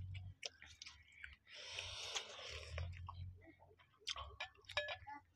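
Chewing close to the microphone as rice, dal and cooked greens are eaten by hand, with many small mouth clicks and a soft hiss for about a second and a half in the middle.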